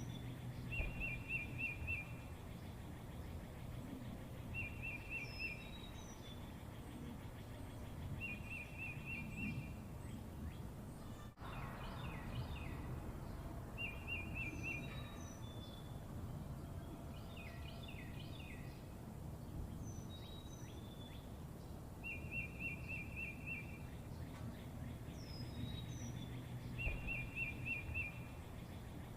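Small birds singing: one repeats a short, fast trill every four to six seconds while others give short high falling chirps, over a steady low background rumble. The sound drops out for an instant about a third of the way through.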